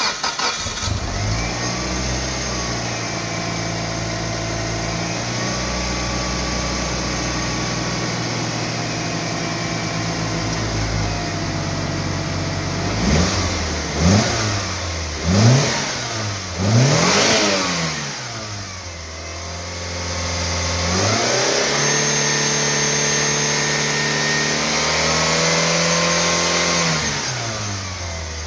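Mitsubishi Lancer Evolution VIII 4G63 turbocharged four-cylinder engine starting and idling steadily, then revved in four quick blips. It settles back, is held at raised revs for about six seconds, and drops back toward idle near the end.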